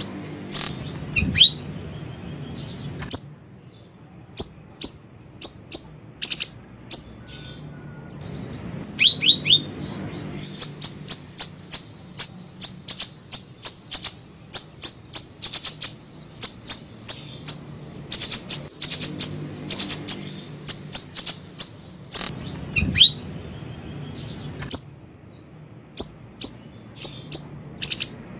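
Recorded song of a small siri-siri bird played as a lure call: rapid bursts of sharp, very high chirps with short pauses between, and a few quick downward-sliding notes. The same phrases come round again partway through, as a loop.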